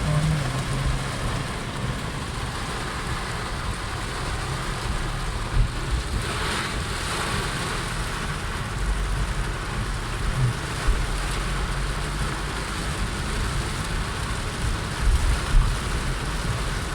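Heavy rain falling steadily, with a low vehicle rumble underneath. There is a brief louder rushing swell about six seconds in.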